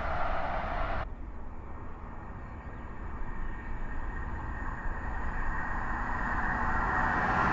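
InterCity 125 high-speed trains: the rumble of one train going away, cut off abruptly about a second in, then another HST approaching at speed, its low rumble and a thin steady high tone growing louder toward the end.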